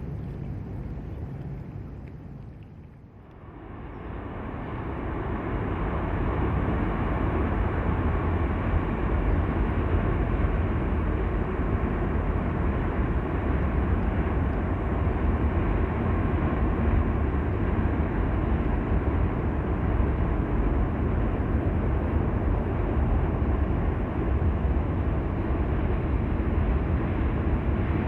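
Diesel locomotives working a freight train, a steady heavy rumble of engines and rolling stock. It dips briefly a few seconds in, then builds back up and holds.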